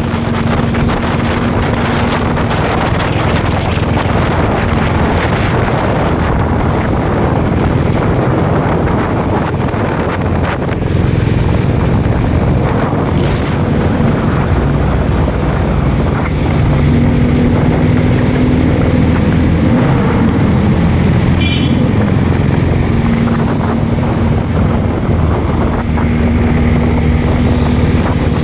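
Triumph TRW motorcycle's side-valve twin engine running under way, with wind buffeting the microphone; the engine gets louder in steps about eleven and sixteen seconds in.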